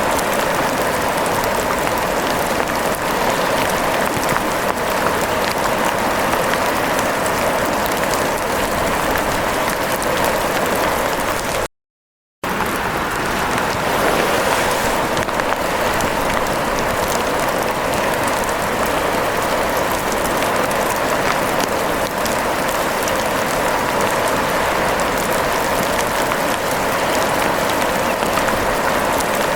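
Steady heavy rain, an even dense patter, cut by a brief moment of total silence about twelve seconds in.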